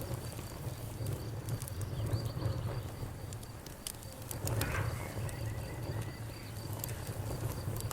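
Wood fire crackling: scattered sharp pops and snaps over a steady low rumble of the flames, with a brief louder flare about halfway through.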